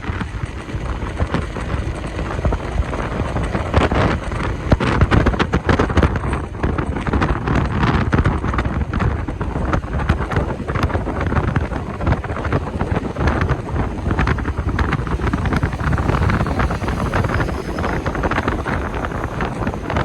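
Wind buffeting the microphone of a moving motorcycle: a dense rushing noise with constant irregular gusts.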